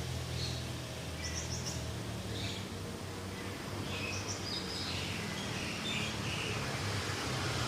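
Several birds calling in short, scattered high chirps over a steady low hum.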